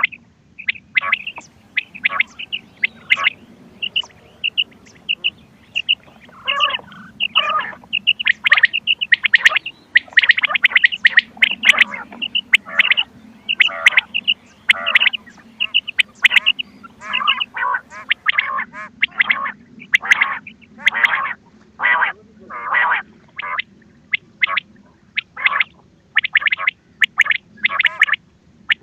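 Quail calls from a hunting lure cassette recording: many short, sharp call notes in quick, overlapping runs. A low steady hum runs underneath.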